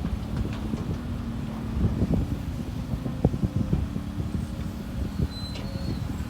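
Heavy truck engine running steadily, with wind buffeting the microphone and scattered short knocks.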